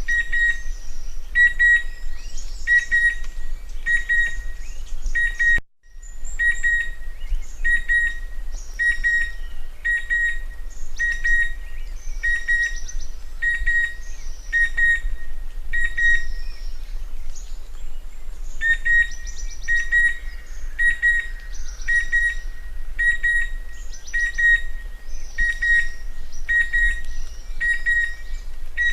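Chestnut-winged cuckoo calling: a short whistled note repeated about once a second, with other birds chirping faintly and higher behind it. The sound cuts out briefly about six seconds in.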